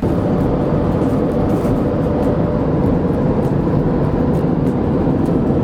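Steady, loud vehicle travel noise: an even rumble and hiss with a faint steady hum, starting abruptly at a cut.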